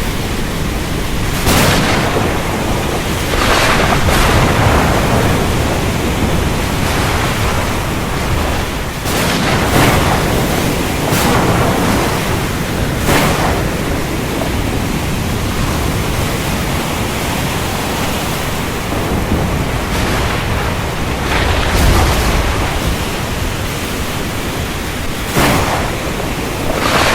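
Heavy rain pouring steadily in a thunderstorm, with sharp thunder cracks every few seconds and a deep rumble of thunder about twenty seconds in.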